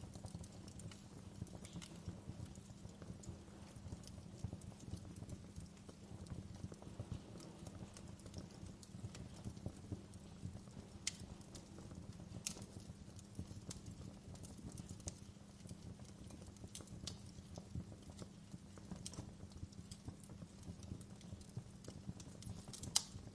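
Fireplace fire crackling steadily, with a few sharper pops scattered through.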